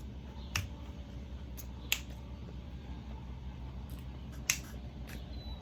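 Close-miked eating of a taco: a handful of short, sharp crunches and mouth clicks while chewing, spaced irregularly over a steady low room hum.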